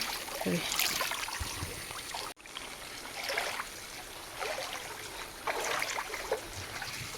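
Running, trickling water, steady, with a brief dropout about two and a half seconds in.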